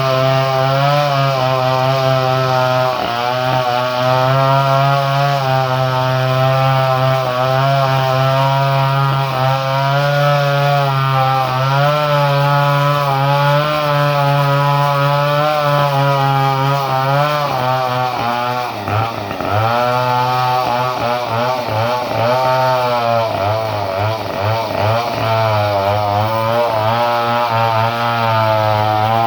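Two-stroke chainsaw with a modified ignition running at high revs, holding a steady pitch. About two-thirds of the way through, the engine note wavers and dips repeatedly for several seconds, then steadies again.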